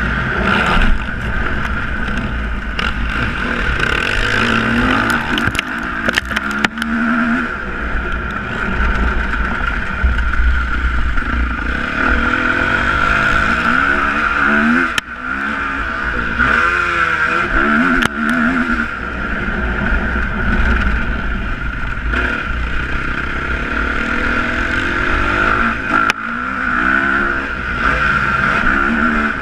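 Motocross motorcycle engines revving hard, their pitch rising and falling over and over as they accelerate and shift, over a steady high hum.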